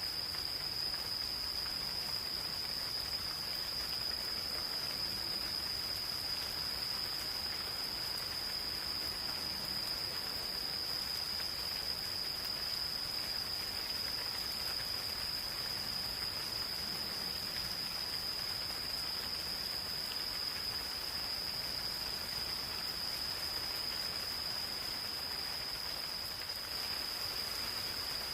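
Insects trilling in an unbroken, high-pitched chorus over the soft, even patter of light rain in a forest.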